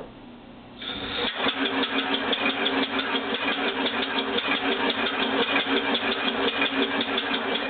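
Home-built six-cylinder oval compressed-air engine starting about a second in and running steadily on compressed air, with a fast, even beat of air pulses.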